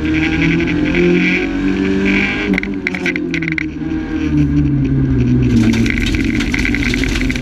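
Renault Clio rally car's engine heard from inside the cabin at full stage speed, its note rising and falling with throttle and gear changes, then dropping lower about halfway through as the car slows. A few sharp clicks or knocks come in the middle.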